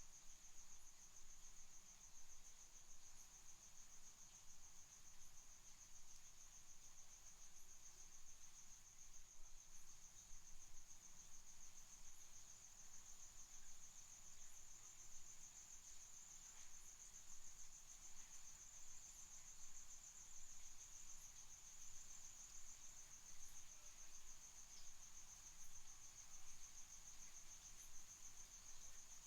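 Faint chorus of crickets trilling: one steady, high, unbroken trill that cuts in suddenly at the start, over a low hum.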